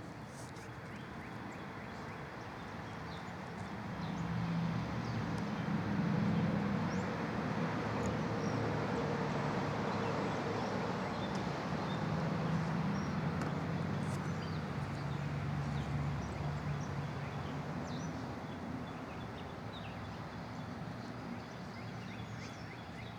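Engine noise of a passing vehicle, swelling about four seconds in, holding for a long stretch and slowly fading near the end.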